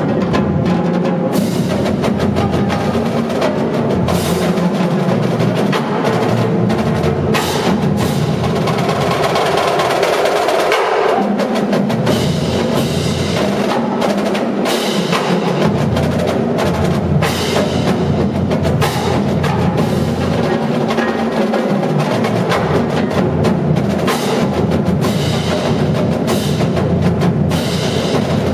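Marching drumline playing a continuous, fast percussion passage of dense drum strokes and rolls.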